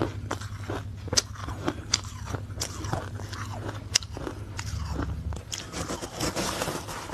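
Ice being bitten and crunched between the teeth close to the microphone: several sharp separate cracks, then denser grinding chewing near the end, over a low steady hum that stops about five and a half seconds in.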